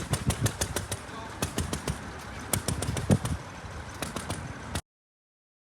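1904 James H. Smith veteran motorcycle's Fafnir engine running, firing in loose, uneven pops several times a second over the open engine's clatter. The sound cuts off abruptly just under five seconds in.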